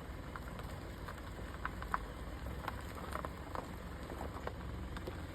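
Low steady hum of an idling car engine, with faint, irregular light ticks scattered through it.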